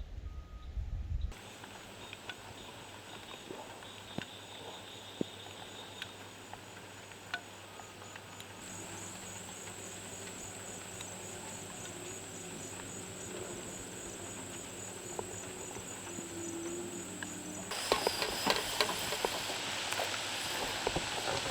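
Insects chirring with a steady, high, pulsing trill and scattered light clicks. Near the end a louder rush of noise with sharp clicks comes in.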